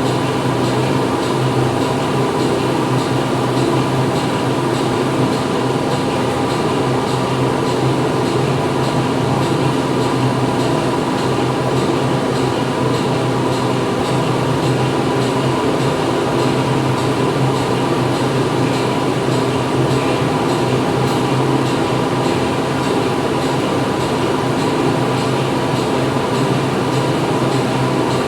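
Factory interior ambience: machinery running steadily, a dense mechanical noise with a constant low hum and a few held tones, unchanging throughout.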